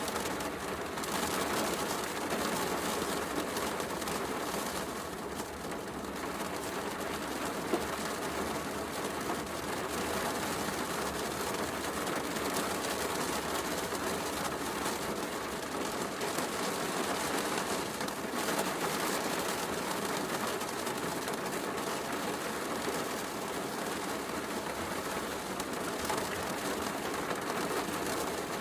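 Heavy rain falling steadily, mixed with a fireplace crackling, with one sharp crack about eight seconds in.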